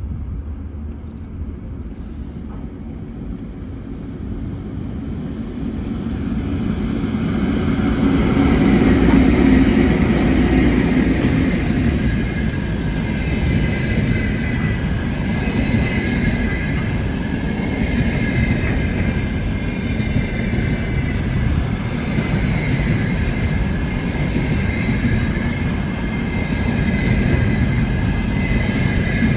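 VL11 electric locomotive with a container train approaching and rolling past. The rumble builds to its loudest about nine seconds in, then holds steady as the wagons pass, with a high squealing tone from the wheels over it.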